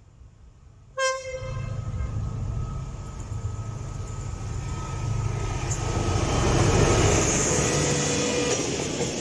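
A diesel locomotive sounds its horn with a sudden loud blast about a second in, and a horn tone lingers for several seconds after. Meanwhile the rumble of the approaching train grows louder and peaks near the end.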